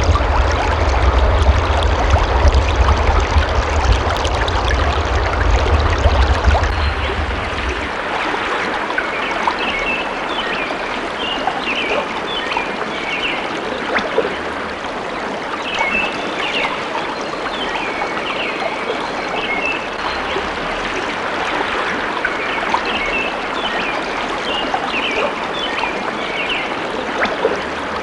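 Stream of water flowing steadily. A low rumble runs under it for the first eight seconds, and short high chirps come in from about nine seconds in.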